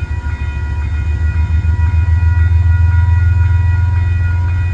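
Diesel passenger locomotive's engine running with a loud, steady low rumble as the train starts to pull out, with a few faint steady high tones over it.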